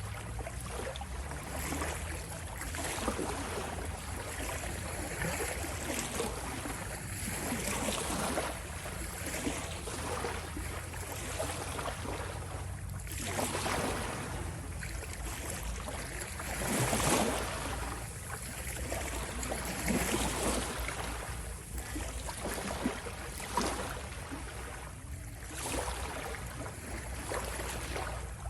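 Ocean waves breaking and washing in, a continuous surf that swells and recedes every few seconds over a low rumble. The biggest surge comes a little past the middle.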